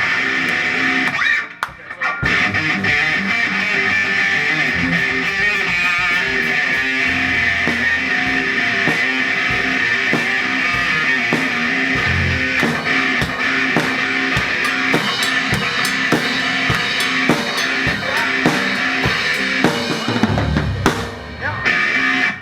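Rock band playing, with electric guitar and drum kit. There is a brief break about two seconds in and another near the end.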